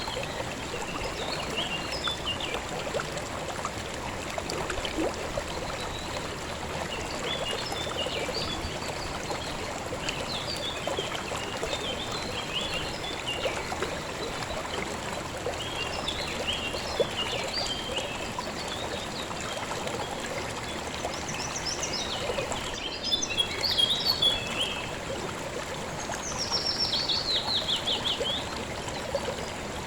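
River water flowing and trickling steadily, with small birds chirping over it throughout. Near the end, one bird gives a quick falling run of notes.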